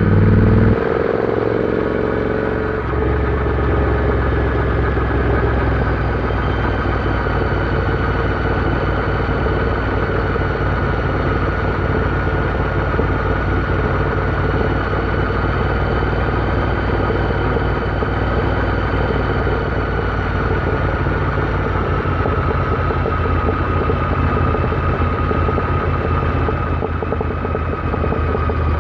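Royal Enfield Interceptor 650's parallel-twin engine running. It is louder for the first second, then the throttle drops off, and by about three seconds in it settles into a steady drone that holds its pitch.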